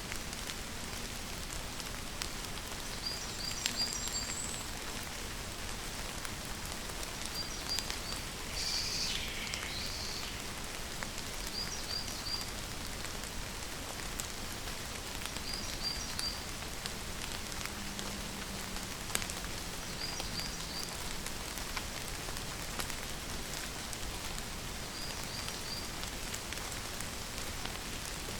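Steady rain falling, with single drops ticking on a hard surface. A small high three-note chirp repeats about every four seconds, and a louder sweeping call sounds about eight seconds in.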